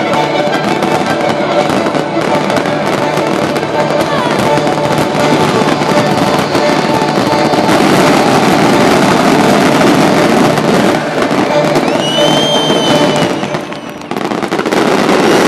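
Finale barrage of display fireworks: dense, continuous crackling and banging from many shells and mines going off at once, over orchestral display music that fades under the bangs. A whistle rises and falls about twelve seconds in, and the barrage dips briefly near the end before swelling again.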